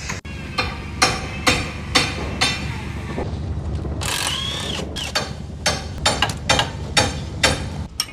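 Repeated sharp knocks, about two a second at first and then more irregular, over a steady low hum, with a brief squeal about four seconds in.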